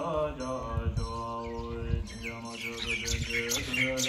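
Small birds chirping in quick strings of short high notes, starting about two seconds in and busiest near the end, over a steady drone of held musical notes.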